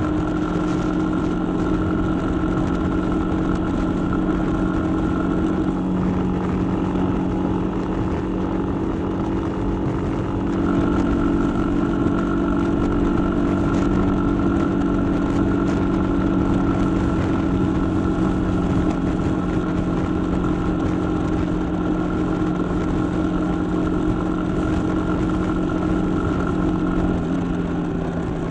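Suzuki Gixxer 150's single-cylinder engine running steadily while cruising at about 65 km/h, with wind rush over it. It gets a little louder about ten seconds in, and the engine note eases down near the end as the bike slows.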